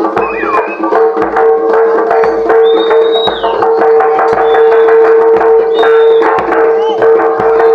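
Jaranan ensemble music: drums and sharp percussion strokes beating over a steady held tone, with short high gliding notes above it.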